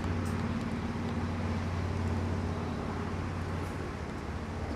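A vehicle engine running steadily with a low hum that slowly fades.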